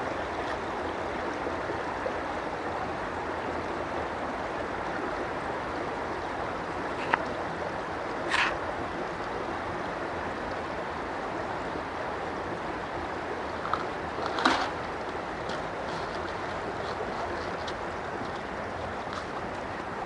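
Steady rush of flowing water, with a few brief clicks and knocks over it.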